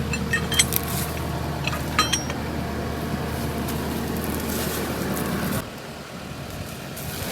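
Engine of the pulling vehicle running steadily under load, with a few metallic clinks in the first two seconds. It drops off sharply about five and a half seconds in.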